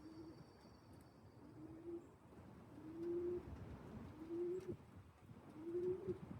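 Racing pigeon cooing: five soft coos in a row, each rising then dropping in pitch, about one every second and a half.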